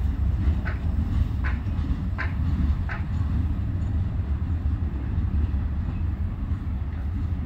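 Slow-moving freight train of coal hoppers and gondolas rolling past with a steady low rumble. In the first three seconds it gives a few short clicks from the wheels, about three-quarters of a second apart.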